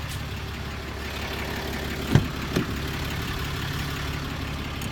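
Rear seat of a 2017 Dodge pickup being folded in the cab, giving two knocks about half a second apart a couple of seconds in, the first louder. A steady low hum of the truck idling runs underneath.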